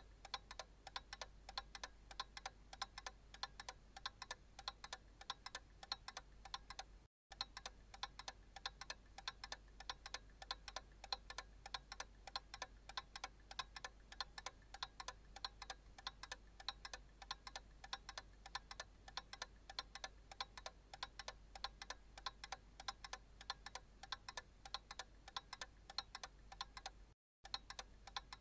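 Analog clock ticking in an even, steady rhythm over a faint low hum. The sound cuts out completely for a split second twice, about 7 seconds in and near the end.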